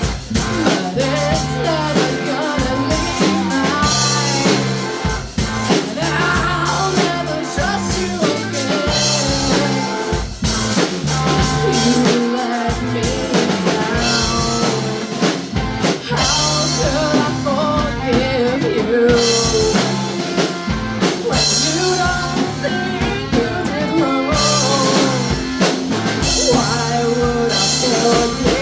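Live rock band playing: sung vocals over drum kit, electric guitar and bass.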